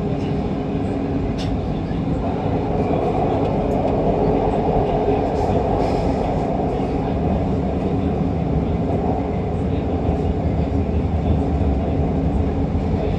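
MRT Kajang Line metro train (Siemens Inspiro) running between stations, heard from inside the train: a steady rumble of wheels and running gear with a faint motor tone in it, growing slightly louder over the stretch.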